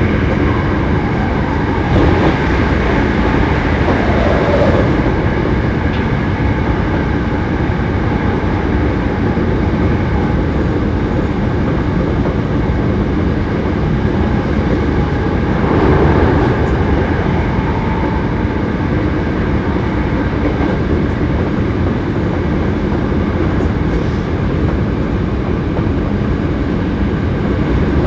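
Running noise of a Hankyu 7300 series train car at speed: a steady rumble of wheels on rail with a steady whine running through it, and brief louder swells about 2, 4–5 and 16 seconds in. The car is one known for an unusual running noise.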